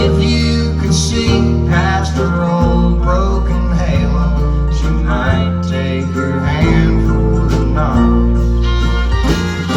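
Country band playing live, an instrumental passage led by guitar over a steady bass line with held low notes.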